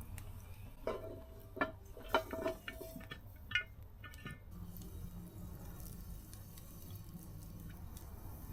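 A handful of light metallic clinks and knocks, one ringing briefly: a cooking pot's lid being set back in place. A faint low hum follows.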